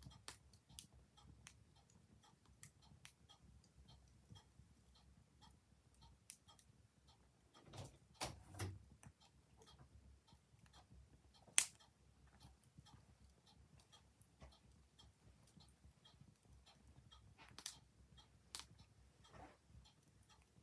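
A clock ticking steadily and faintly, with a wood fire crackling and giving a handful of louder, irregular pops, the sharpest a little past halfway.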